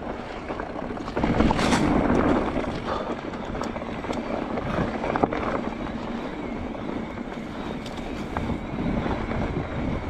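Mountain bike running down a dirt forest trail: tyres rolling over rough ground with the bike rattling and knocking. The noise steps up about a second in.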